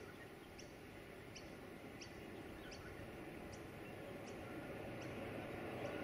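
A bird repeating a short, high, falling call about every three-quarters of a second. Under it a faint rumble slowly grows louder: the charter train's diesel locomotives approaching up the grade.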